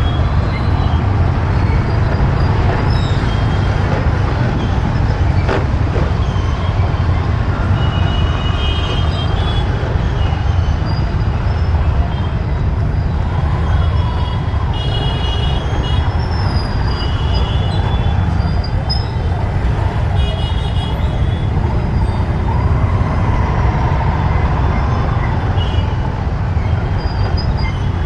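Riding a motorbike through city traffic: a steady low rumble of engine and wind on the microphone, with other vehicles' horns honking several times through the middle.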